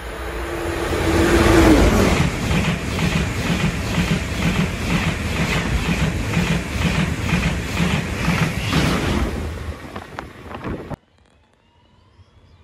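Deutsche Bahn ICE train passing without stopping. A rising rush comes as it approaches, with a tone that drops in pitch as the front goes by. Then comes an even, rhythmic clatter of wheels on the rails, about two beats a second, for several seconds, and the sound cuts off abruptly near the end.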